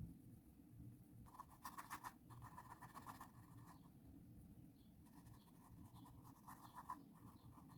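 Faint, scratchy strokes of a paintbrush dragged across canvas in acrylic paint, in two spells: the first a little over a second in, the second from about five seconds in, over a low steady room hum.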